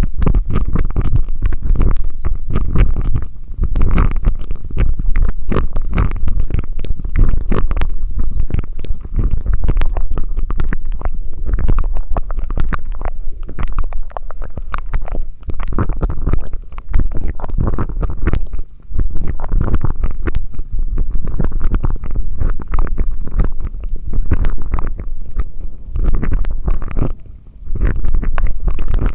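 Close-miked ASMR mouth sounds: a dense, loud run of wet clicks and pops over a low rumble, with a brief dip about 27 seconds in.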